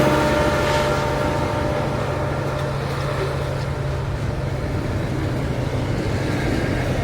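Long intermodal freight train rolling past on a climb, its wagons making a steady rumble, with the drone of the diesel locomotives at its head fading in the first second or so.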